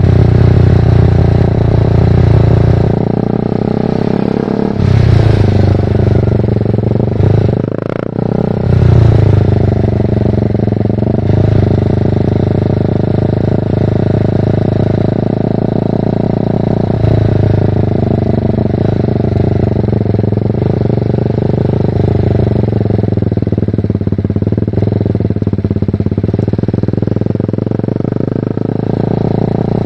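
BMW G310R's single-cylinder engine through a full Mivv exhaust, under way: the revs rise and fall in the first few seconds, with a gear change about eight seconds in. It then runs at fairly steady revs.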